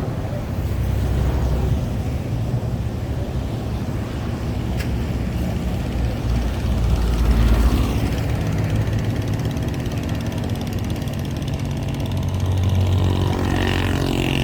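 Engines running with a steady low drone, with a deeper pitched hum joining about eleven seconds in.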